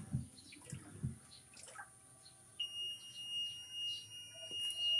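A Sharp ES-P689 top-load washing machine's alarm buzzer sounds one steady high-pitched tone that starts suddenly about halfway in and keeps going. It is the warning that goes with its LE error code.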